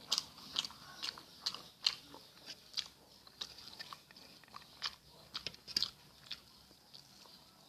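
Close-miked mouth sounds of someone chewing a meal of rice, green chilli sambal and omelette: irregular wet clicks and smacks, a few a second.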